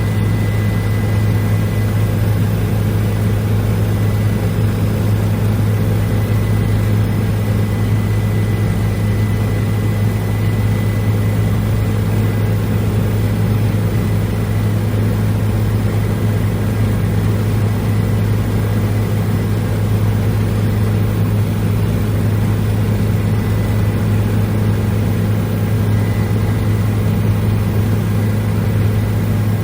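Steady, loud drone of a helicopter in flight, heard from inside the cabin, with a faint high whine over the low rumble.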